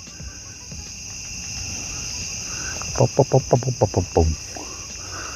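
Steady, high-pitched chorus of insects droning without a break. About three seconds in, a quick run of a dozen or so short pitched notes sounds over it for just over a second.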